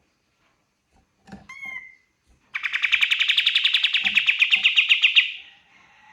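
Kapas tembak bird singing: a short call of a few gliding notes, then a loud, very rapid trill of about ten notes a second held for nearly three seconds, then a fainter call near the end.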